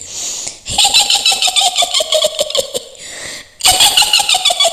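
A woman's high witch cackle: two long runs of rapid laughing pulses, each sliding down in pitch, with a hissing breath before the first run and a short break between the runs.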